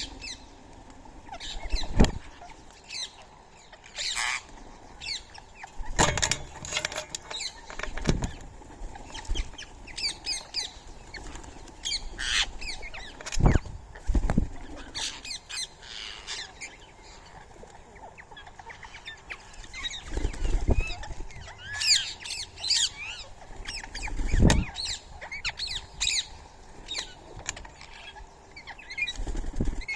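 Birds at a feeding spot: many short high chirps and calls, with wingbeats and several loud thumps of birds flapping and landing.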